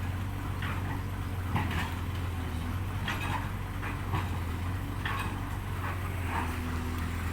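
Truck engine idling with a steady low hum, with scattered knocks and clatters about once a second, as of cargo being loaded.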